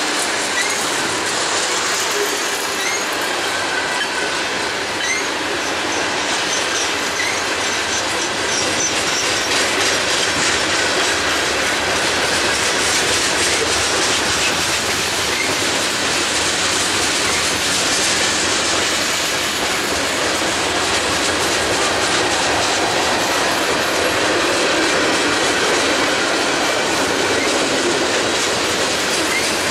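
Freight train's tank cars and boxcars rolling past, steel wheels running steadily on the rails.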